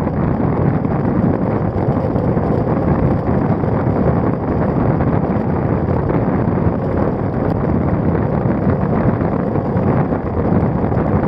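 Steady wind noise on the microphone of a bike-mounted action camera, from the air rushing past while riding a road bike.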